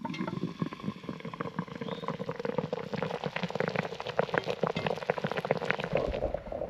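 Pork steaks sizzling and bubbling in a Dutch oven over charcoal: a steady stream of fine, irregular crackles and pops.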